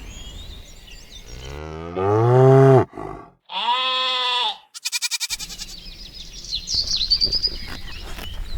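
Cattle mooing: a long low call about two seconds in that cuts off abruptly, then a shorter, higher call and a quick pulsing cry. Birds chirp near the end.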